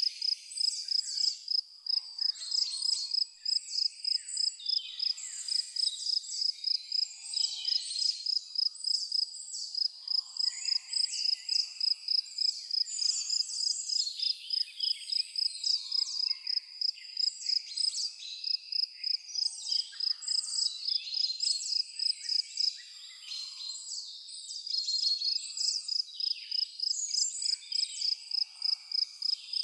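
Crickets chirping in a steady, even rhythm of about two to three chirps a second, with birds chirping and calling over them. The cricket rhythm breaks off briefly about three-quarters of the way through.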